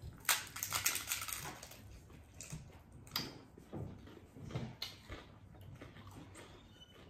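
Biting into a taco: a quick run of crunches in the first second and a half, then quieter chewing with scattered soft clicks.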